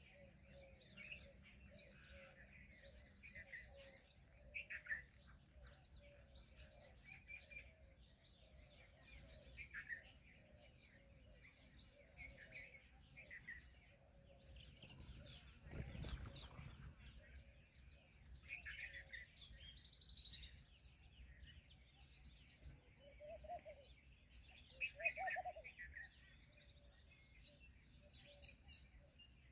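Many small birds chirping and twittering together, with a louder high-pitched call repeating about every three seconds. A dull thump comes about halfway through.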